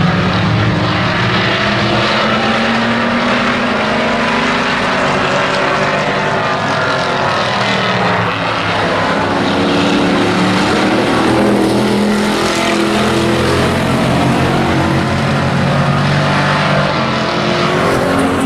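A pack of hobby-class race trucks running laps. Their engines make a steady, loud drone of several pitches that drift up and down as the trucks pass.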